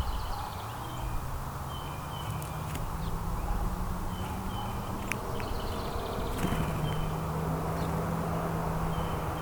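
Backyard ambience with small birds giving short, repeated chirps, a few sharp clicks, and a low engine hum from a passing vehicle that grows louder near the end.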